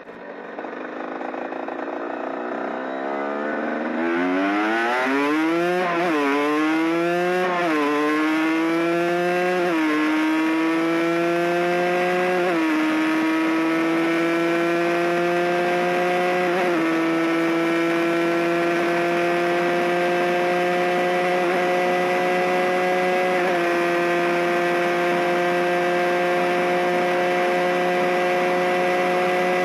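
Cagiva Mito 125's two-stroke single-cylinder engine accelerating hard through the gears, its pitch climbing and dipping at each of about six upshifts. After the last shift, about two-thirds of the way in, it holds a high, nearly steady pitch at speed.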